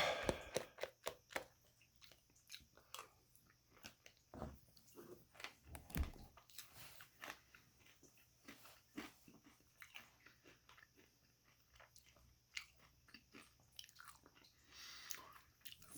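Faint chewing and crunching of granola in a thawed acai bowl, with scattered small clicks.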